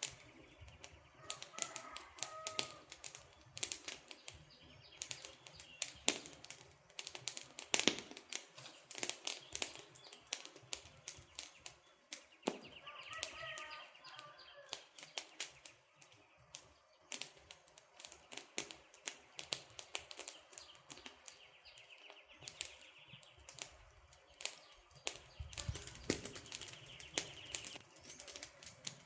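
Wood campfire crackling, with frequent irregular sharp pops and snaps. Bird calls come in briefly twice in the background.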